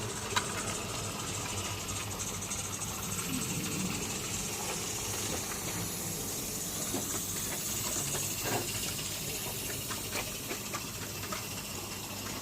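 Steady steam hiss from a 16mm-scale live-steam garden locomotive, with a few faint clicks.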